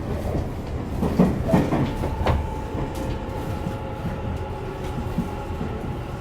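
Tobu 50050 series electric train running, heard from inside the car: a steady low rumble with a few wheel-and-rail knocks about one to two seconds in, after which a steady whine sets in and holds.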